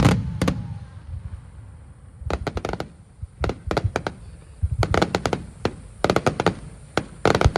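Aerial fireworks: a loud burst dying away at the start, then repeated clusters of rapid sharp pops and crackles, a fresh cluster about every second.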